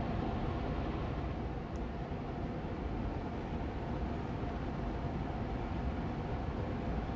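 Austin Air Allergy Machine air purifier fan running steadily on medium speed: an even, rushing hum, heaviest in the low end.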